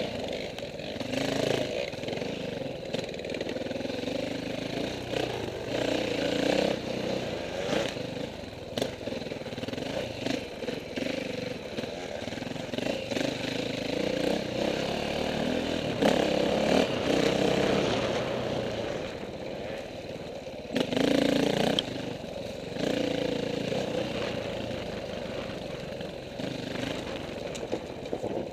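KTM 450 dirt bike's four-stroke single-cylinder engine being ridden off-road, its revs rising and falling with the throttle, with louder surges about the middle and around three quarters of the way through.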